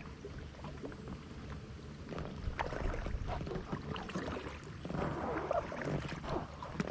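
Kayak paddles dipping and splashing in river water in irregular strokes, over a steady low rumble.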